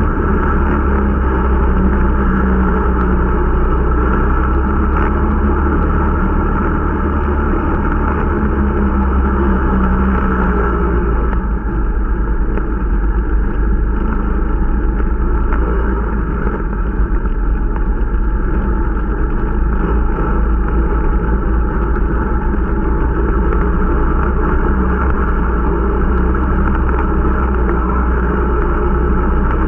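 Irbis Dingo T125 snowmobile's 125 cc four-stroke engine running steadily under way, with a heavy low rumble, during its running-in. About eleven seconds in the sound thins a little in the middle.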